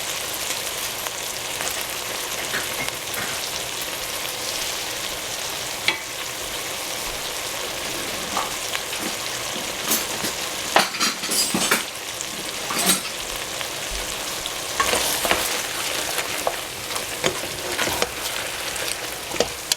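Eggplant sizzling in hot oil in a pan as it is stir-fried with dark soy sauce, a steady hiss. A spatula scrapes and clacks against the pan, most often in the middle and latter part.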